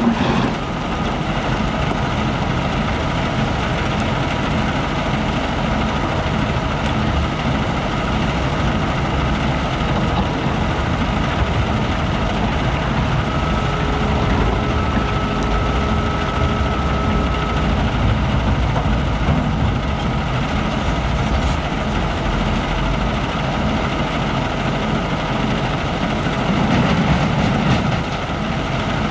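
Heavy diesel machinery running steadily at a quarry, a wheel loader and trucks at work. A thin whine rises out of it for a few seconds midway, and the engine noise swells louder briefly near the end.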